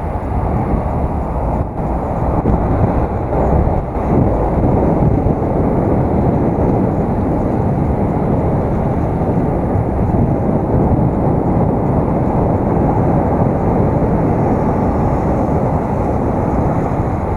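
Steady low rumble of wind buffeting and tyre-on-road noise on an action camera's microphone while riding a bicycle, muffled above the low range.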